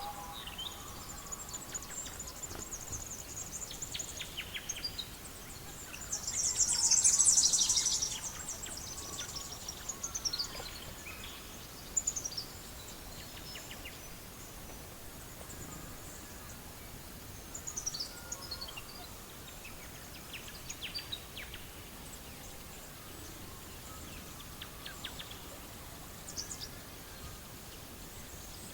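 Wood fire crackling with scattered sharp pops over a steady hiss, with birds chirping in the background. A louder burst of high-pitched sound comes about six seconds in and lasts a couple of seconds.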